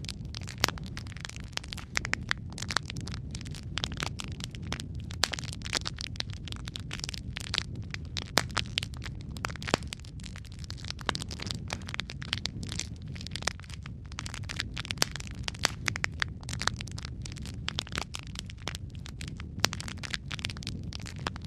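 Wood fire burning in a fireplace: a steady low rumble of flame with dense, irregular crackles and sharp pops from the burning logs.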